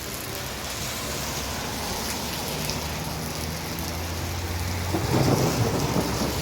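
Heavy rain falling steadily, with a low hum joining about halfway through and a louder low rumble about five seconds in.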